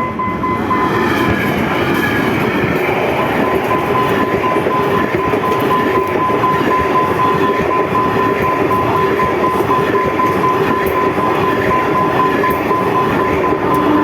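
A train passing close by: a loud, steady rush of wheels on the track with a thin, steady high-pitched whine running through it.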